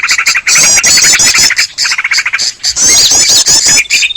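Bird-lure recording of many small songbirds calling at once in a noisy chorus, with fast runs of repeated high chattering notes broken by short gaps. A steady high trill comes in near the end.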